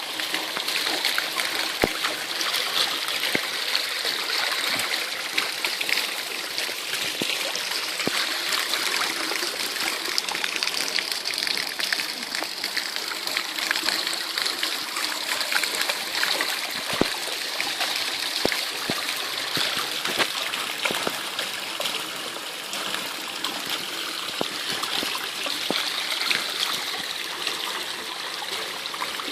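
Heavy rain with running water: a steady rush of water throughout, dotted with many scattered drips and splashes.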